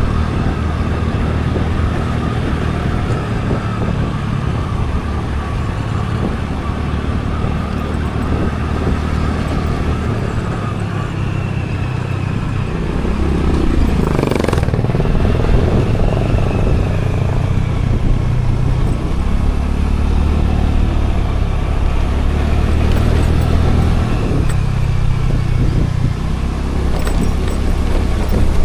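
Scooter engine running under way with road noise, its low hum shifting in level now and then. About halfway through, a brief louder swoosh sweeps past.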